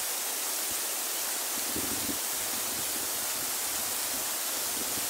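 Waterfall pouring into a pool, a steady rushing hiss of falling water, with a brief low disturbance about two seconds in.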